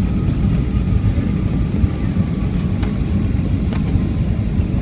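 Cabin rumble of a Boeing 757-200 taxiing after landing, its engines at idle, steady and deep, with a couple of light clicks and rattles from the cabin.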